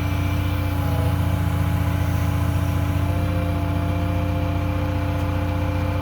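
Heavy diesel engine running steadily at an even speed, a deep drone with a steady hum above it.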